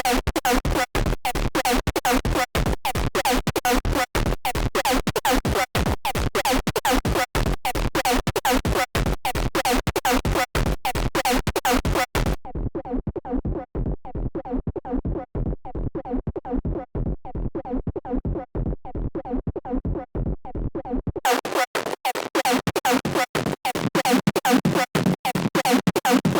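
Serum software synthesizer patch built on an image-derived wavetable, playing a fast, stuttering, choppy electronic tone. About twelve seconds in the sound turns dull and dark, with its top end gone; about nine seconds later it turns bright again, then cuts off suddenly at the end.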